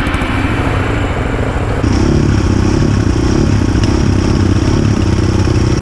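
Dirt bike engine running and revving. About two seconds in the sound changes abruptly and gets louder, with the engine note rising and falling.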